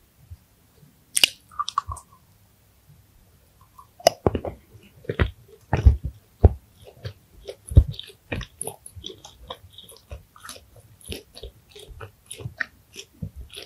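Close-miked chewing of a candy: a sharp bite about a second in, then from about four seconds on a dense run of mouth clicks and low chewing thumps.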